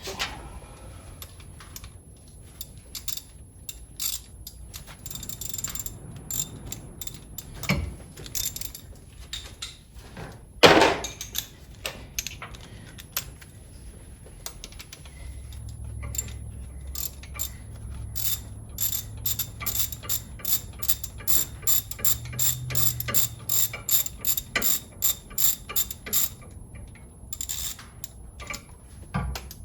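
Hand ratchet wrench clicking as it backs out the cylinder head bolts of a Ford 3.8 L V6, with scattered clicks and one loud metal knock about ten seconds in. In the second half it settles into a long steady run of clicks, about three a second.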